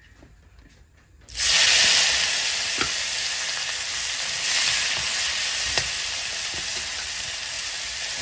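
Chopped banana flower dropped into hot oil in a kadai: a loud sizzle starts suddenly about a second in and keeps on steadily as more is added, with a couple of light clicks.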